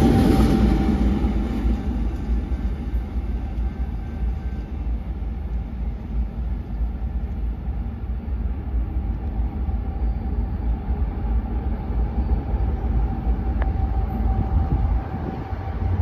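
A BNSF freight train's trailing diesel locomotives passing close, loudest at the start, then the train's sound fading as it pulls away. What is left is a steady low rumble with a faint steady tone.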